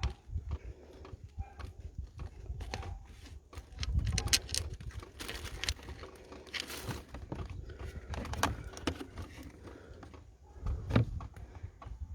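Irregular clicks, taps and knocks of hand tools and parts being handled while the engine's thermostat housing bolts are removed, with heavier thuds about four seconds in and again near the end.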